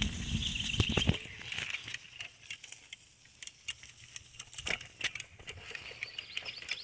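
Bicycle rattling and clicking as it rolls slowly over wet, uneven ground, with irregular small knocks and ticks. There is a louder rumble in the first second, then quieter rattling.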